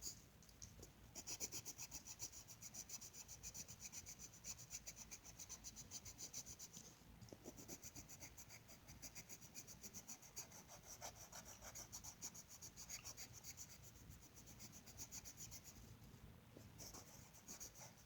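Colouring in a colouring book: fast back-and-forth strokes scratching on paper, faint, with brief pauses about seven seconds in and again near sixteen seconds.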